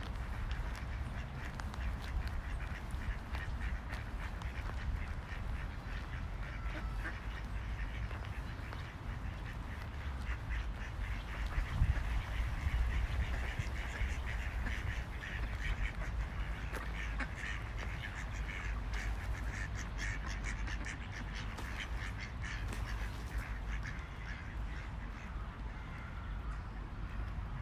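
A flock of ducks quacking, many calls overlapping in a dense, continuous chorus over a steady low rumble. It swells a little about twelve seconds in.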